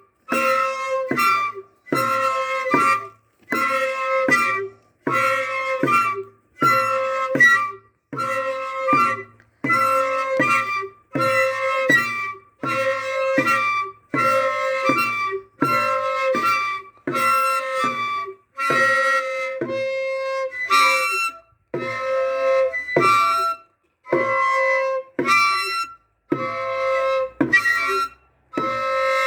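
Flautas de chino, the long cane flutes of Chilean chino dancers, blown in short blasts in a steady rhythm. The blasts come about once a second and alternate between two pitches, as two groups of players answer each other.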